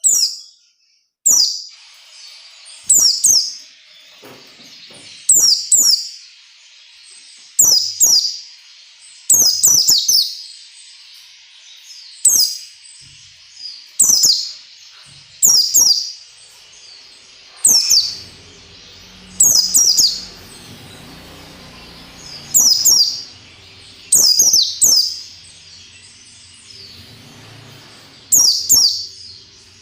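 Pleci (white-eye) singing in the sharp 'nembak' style: short, loud, high notes that sweep steeply downward, given about every two seconds and often in quick pairs. A steady high hiss runs underneath.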